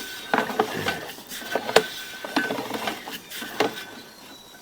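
Drain inspection camera's push rod and reel rattling, with irregular clicks and knocks as the camera is worked through the sewer pipe.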